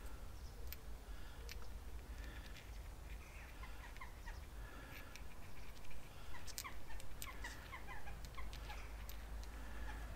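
Birds chirping: many quick short calls, busiest in the second half. Underneath is a steady low rumble and a few light clicks as metal caliper guide bolts are handled.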